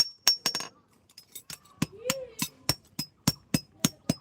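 Blacksmith's hammer striking metal on an anvil while forging nails. A few quick blows come at the start, then a short pause, then a rapid, even beat of blows, each with a brief high ring.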